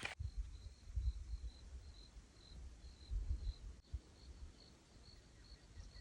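A cricket chirping steadily, a short high chirp roughly every half second, with irregular low thumps and rumble on the microphone.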